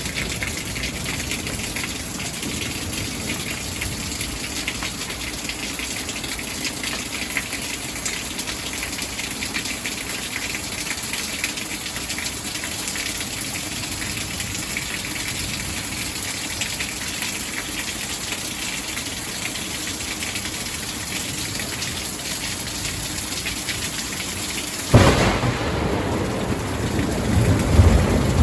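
Steady rain falling on the trees, then late on a sudden loud crack of thunder that rolls into a low rumble, which swells again shortly after.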